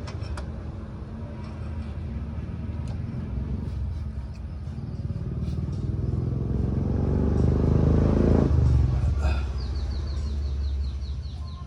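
Hero Glamour motorcycle's single-cylinder four-stroke engine running, its revs climbing over several seconds and then dropping back sharply about eight and a half seconds in.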